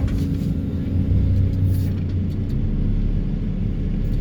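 Excavator with a vibro hammer running, a steady low drone and rumble of heavy machinery.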